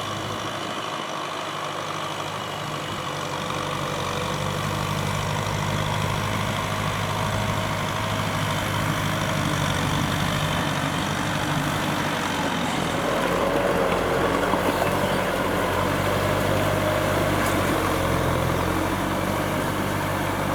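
Kubota M6040SU tractor's diesel engine running steadily, growing a little louder over the first few seconds.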